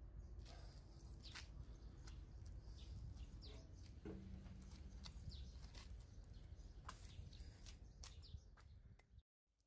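Faint outdoor ambience: a few short bird chirps over a low, steady rumble, with scattered faint clicks.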